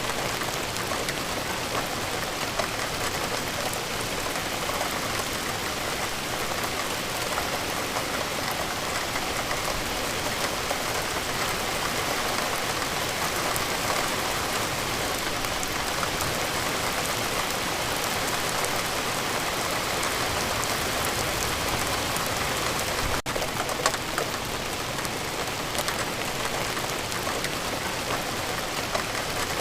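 Steady rain falling, a dense even hiss full of small drop ticks. The sound cuts out for an instant about 23 seconds in.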